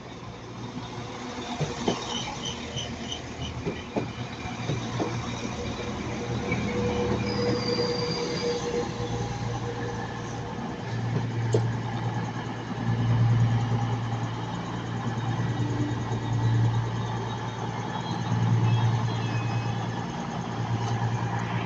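Passenger train running through on the line: a low steady drone that swells and grows louder over the second half, with faint high wheel-squeal tones in the first half and a few sharp clicks from the wheels over rail joints.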